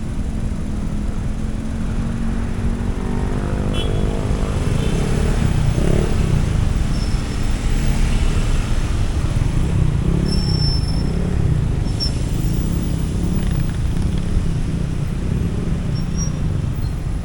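Motorcycle riding on the road: a steady low rumble of wind and engine, with an engine drone standing out for a couple of seconds about three seconds in.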